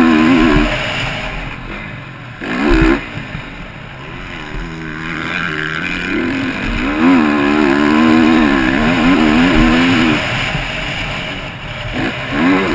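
Motocross bike engine revving hard and dropping off repeatedly as the throttle is opened and closed, with a long high-revving pull near the middle, heard from the rider's own onboard camera.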